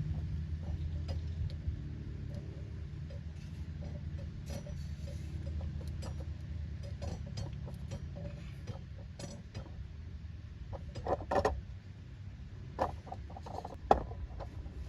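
A steady low mechanical hum with scattered light clicks and a few sharper knocks of metal parts or tools being handled, the loudest about 11 and 14 seconds in.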